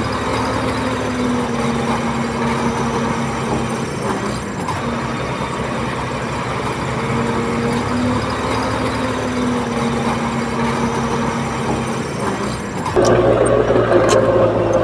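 Diesel engine of earthmoving machinery running steadily, its pitch rising and falling a little. About thirteen seconds in the sound changes abruptly to a louder, different engine note.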